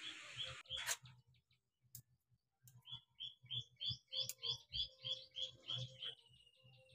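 A bird calling a rapid run of short high chirps, about three a second, ending in one longer drawn note. A steady hiss cuts off with a click about a second in.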